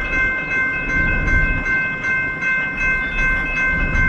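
Railroad grade-crossing warning bell ringing in a steady repeating rhythm, about two strokes a second, over a low rumble.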